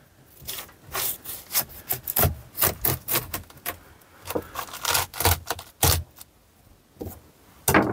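Knife cutting through a ripe watermelon, a run of crisp, irregular crunching strokes as the blade saws through rind and flesh.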